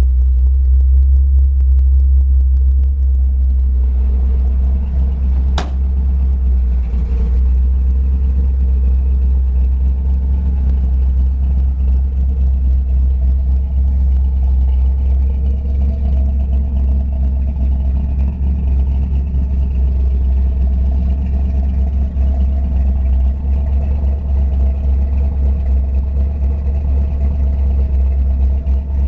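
Old truck's engine running steadily on its reinstalled Blue Phoenix ignition, a deep even rumble. A single sharp click sounds about six seconds in.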